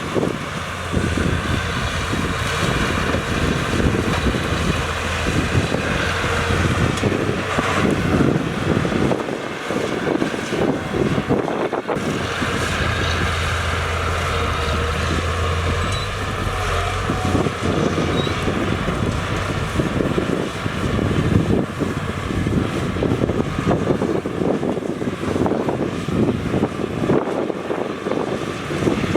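Diesel engines of heavy earthmoving machines, bulldozers and dump trucks, running steadily at work. A low engine hum swells about a second in and again around the middle.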